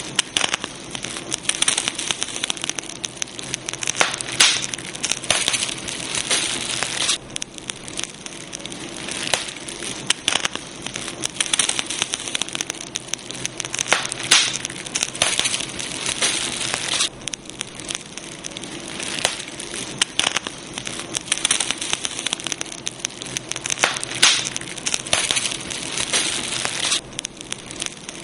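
Campfire crackling: burning wood giving a dense, irregular stream of sharp pops and snaps over a soft hiss.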